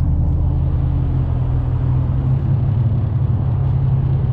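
Infiniti G's V6 idling steadily through an aftermarket performance exhaust: a loud, even low drone with no revving.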